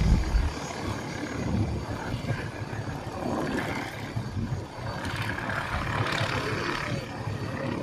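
Steady low rumble of an engine, heard from a distance, over a noisy background.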